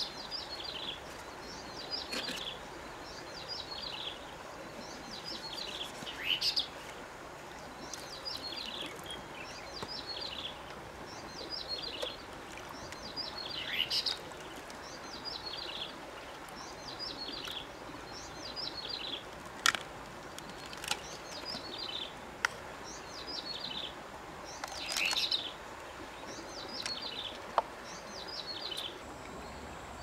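A bird singing the same short phrase of quick descending chirps over and over, about once every second or so, over a steady outdoor hiss, with a few sharp clicks partway through.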